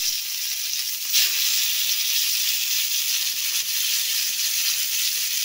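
Stuffed bitter gourds frying in hot oil in a kadhai: a steady sizzling hiss that swells briefly about a second in.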